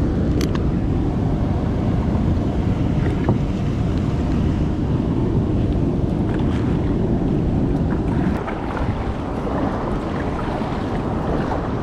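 Wind buffeting the microphone over the rush of river water, a steady rumbling noise that eases slightly about eight seconds in, with a few faint clicks.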